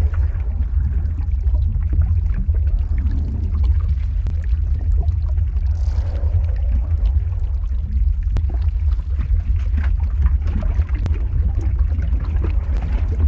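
Lava flow ambience sound effect: a deep, steady rumble with scattered sharp crackles and a liquid, bubbling texture, and a brief rush of hiss about six seconds in.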